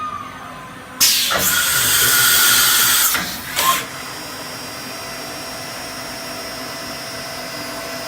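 Brother TC-R2A CNC drill and tapping center running: a sudden loud hiss for about two seconds, a short second burst, then a steady machine whir with a faint high whine.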